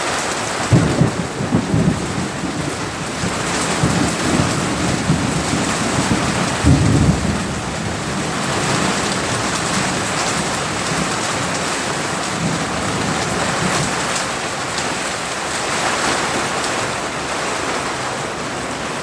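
Heavy rain pouring down steadily in a thunderstorm, with thunder rumbling low about a second in and again around seven seconds in.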